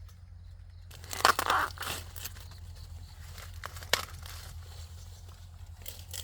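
Dry corn leaves and husks crackling and tearing as they are handled, with a loud burst about a second in and sharp snaps near four seconds and again near the end.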